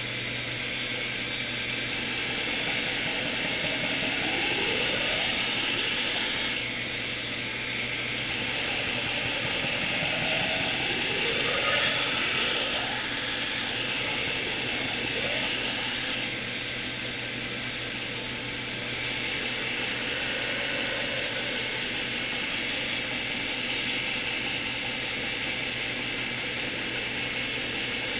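Knifemaker's belt grinder running steadily, with a hissing grind as steel is pressed against the moving belt in long passes of several seconds, broken by two short pauses.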